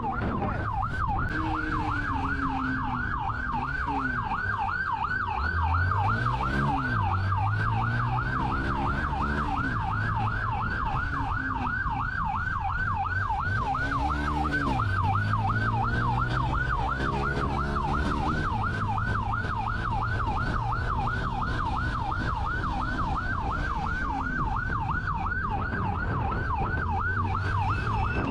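Police car siren in a rapid yelp, rising and falling several times a second without a break. Underneath it, the pursuing patrol car's engine revs up and settles back a couple of times as it accelerates.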